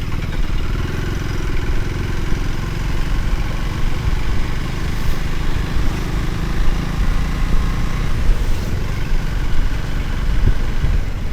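Motorcycle engine running steadily while the bike is ridden along the road, under a heavy low rumble on the microphone.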